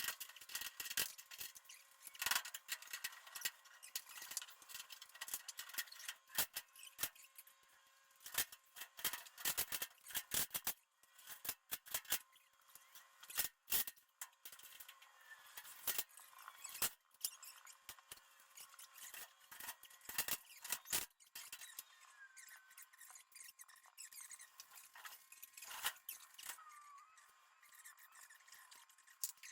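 Irregular metallic clicks, taps and short scrapes from hand tools working on a garage door hinge, coming in uneven clusters with gaps between them.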